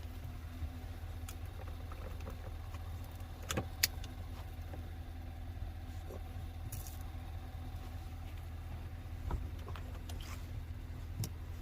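A vehicle engine idling steadily, with a few light clicks and clinks over it, the sharpest a pair of clicks about four seconds in.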